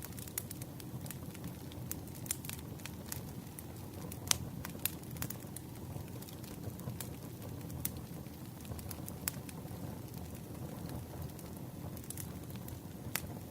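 Campfire burning: a steady low rumble of flames with irregular sharp pops and crackles of burning wood, the loudest pops about four and five seconds in.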